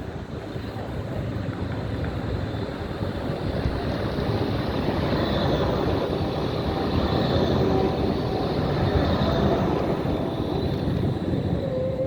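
Zagreb tram passing, its rumbling running noise swelling to a peak in the middle and easing off near the end, with a faint high whine over the loudest part.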